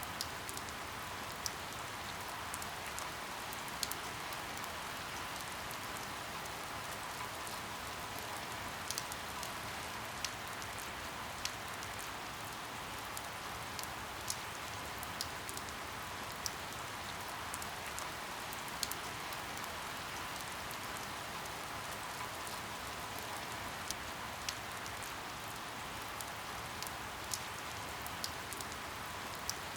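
Steady rain with a constant hiss, and individual drops tapping sharply on a hard surface at irregular moments, roughly one to three times a second.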